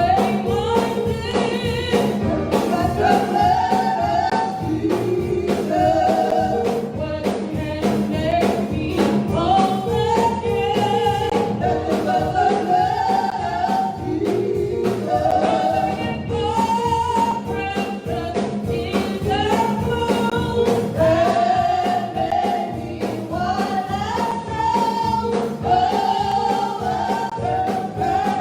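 Gospel music: a singing voice carrying a melody over instrumental accompaniment with a steady beat.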